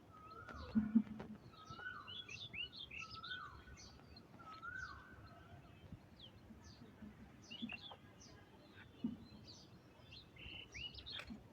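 Birds calling: a call that holds a note and then drops away repeats about once a second for the first five seconds, with quicker high chirps scattered throughout. A brief low thud comes about a second in.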